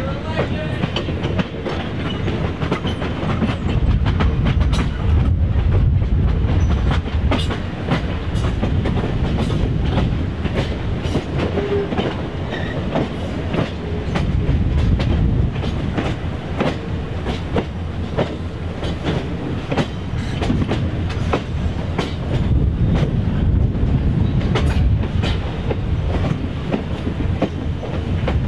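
A train running on jointed track: a steady low rumble with wheels clicking over the rail joints throughout.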